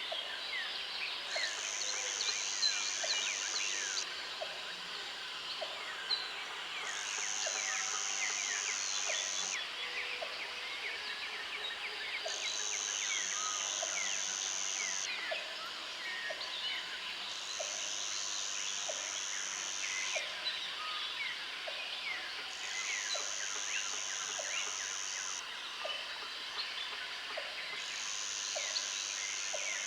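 Countryside outdoor ambience: many birds chirping and calling together, with a high steady trill that sounds for about three seconds at a time, five or six times over, and soft clicks about once a second underneath.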